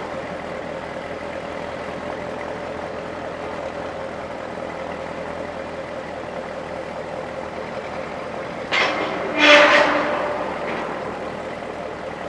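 Supercharged 6.2-litre LT4 V8 of a 2019 Chevrolet Corvette Z06 idling steadily, with a brief louder burst about nine seconds in.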